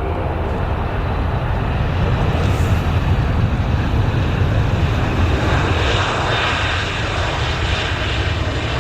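Airliner engines running, a loud steady rumble with a hiss over it that swells a little about two seconds in and eases near the end.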